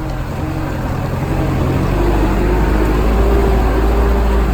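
Heavy vehicle engine running, growing louder and a little higher in pitch from about two seconds in as it picks up.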